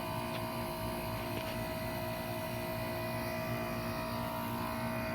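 Steady machine hum, a low drone carrying several even, unchanging tones.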